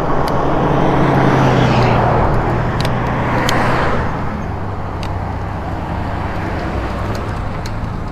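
Road traffic: a car passes close by, loudest over the first four seconds, then steady traffic noise continues.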